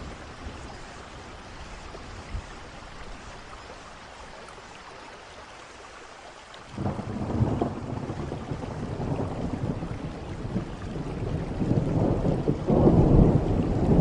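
Steady rain, then a clap of thunder about halfway through that rolls on as a low rumble, rising again near the end.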